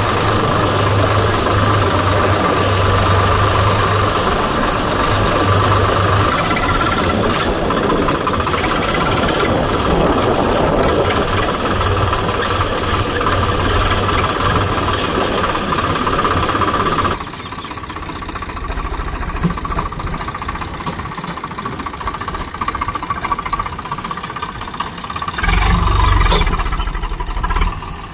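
Diesel engines of a JCB loader and tractor running during loading. The sound drops off abruptly about two-thirds of the way through, and a louder low rumble swells near the end.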